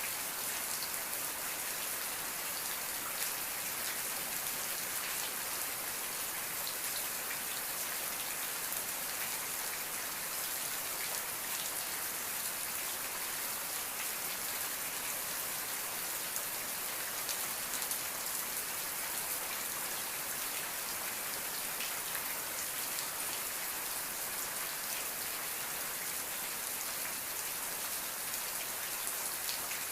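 Steady rain falling, an even hiss of many fine drops pattering on a surface, with no thunder.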